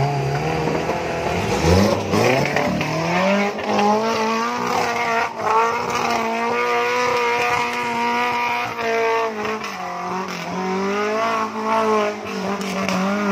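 Suzuki LJ80 Jimny engine revving hard under load as it claws up a steep muddy climb. The revs rise about two seconds in and hold high and steady, dip briefly near the two-thirds mark, climb again, then fall away at the end.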